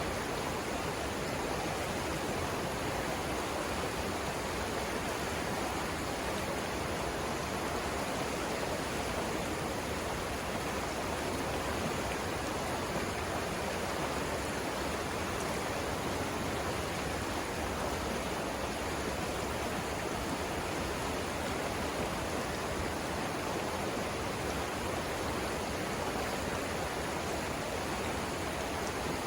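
The Savannah River flowing, a steady, unbroken rush of water.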